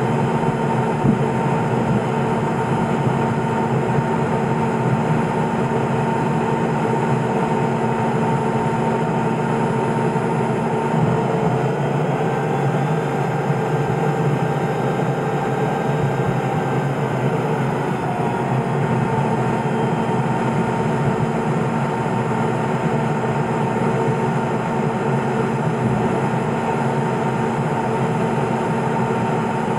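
Steady drone of the Cessna P210's engine and propeller heard inside the cockpit, its tone shifting about eleven seconds in.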